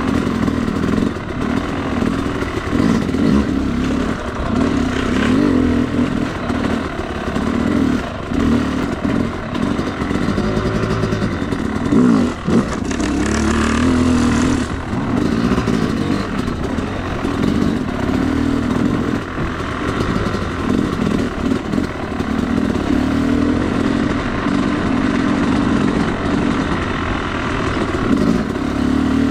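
Yamaha YZ250 two-stroke dirt bike engine being ridden, its revs rising and falling continuously as the throttle is worked, with a brief clatter about twelve seconds in.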